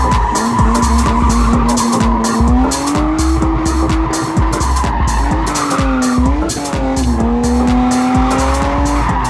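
Music with a steady beat and heavy bass, laid over drift cars: engines revving up and down and tyres squealing.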